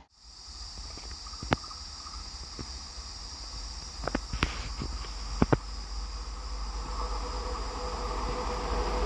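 A train approaching, its noise growing steadily louder, with a steady high tone over it and a few sharp clicks.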